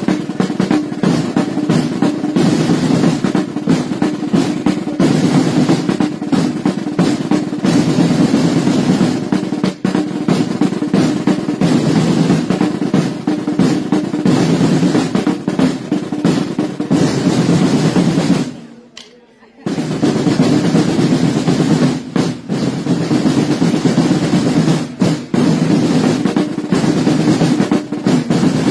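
Side drums playing a continuous, rapid roll. It breaks off for about a second roughly two-thirds of the way through, then resumes.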